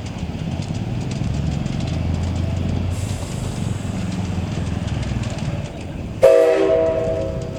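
A heritage train moving slowly with a low rumble, a hiss joining about three seconds in, then a sudden loud, short whistle blast of several tones near the end that fades away.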